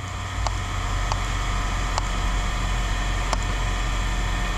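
A vehicle engine running steadily in a low rumble, with a few faint light clicks over it.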